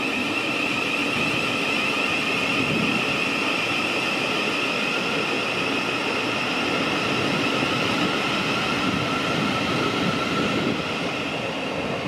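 Thameslink electric train moving through the station: a steady multi-tone whine from its electric drive over the rumble of wheels on the track.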